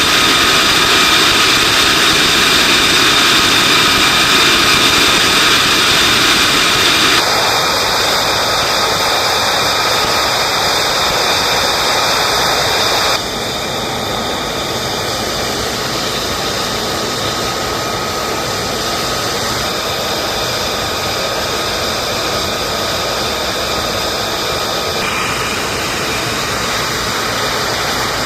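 Jet engines running: a steady roar with a high whine over it. The level drops abruptly twice, about seven and about thirteen seconds in, and the whine shifts near the end.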